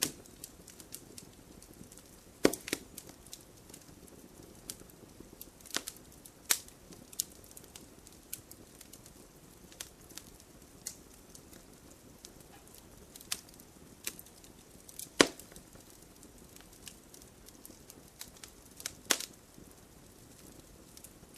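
Fireplace fire crackling, with sharp irregular pops over a soft low hiss; the loudest pops come a few seconds in, about the middle and near the end.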